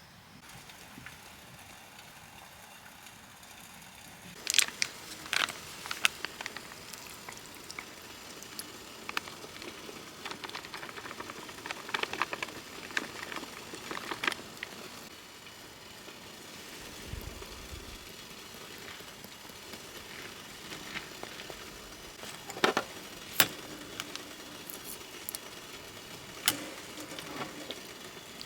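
Wood campfire crackling steadily, with sharp pops and snaps every few seconds.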